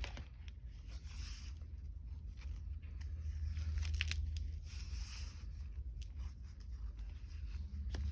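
Pages of a handmade altered paper journal being turned and handled: paper rustling and brushing with a few short crisp ticks, over a low steady hum.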